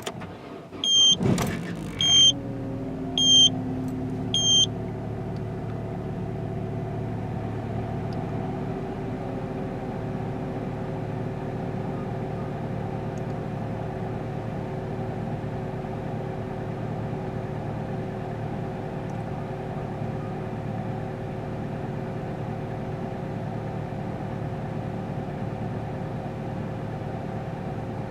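Opel Astra H's 1.4-litre four-cylinder petrol engine cold-starting at minus 9.5 °C: it catches about a second in with a quick rise in revs, then settles into a steady cold idle. Four electronic warning chimes sound during the first few seconds.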